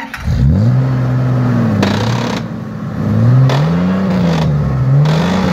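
Off-road Jeep engine revving hard under load, its pitch climbing, holding and dropping again about three times as the stuck vehicle tries to drive out. Three short rushes of noise come through over the engine.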